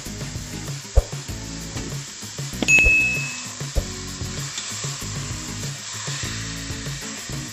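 Beef shank searing in hot oil in a pot, sizzling steadily. A metal fork knocks against the pot a few times, with one ringing clink about three seconds in. The sizzle grows brighter toward the end as the meat is turned.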